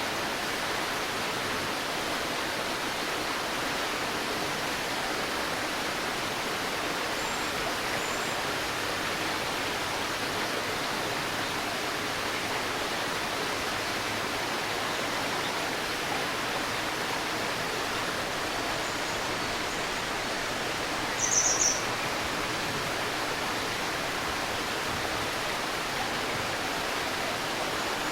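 A shallow stream babbling steadily, with a few faint high bird chirps and a short, louder burst of bird chirps about three quarters of the way through.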